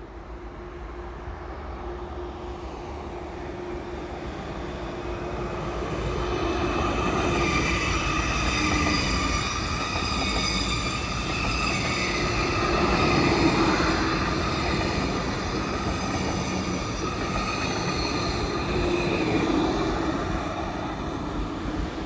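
A train running through the station, growing louder over the first several seconds and staying loud, with high steady ringing tones over the rumble of wheels on rail.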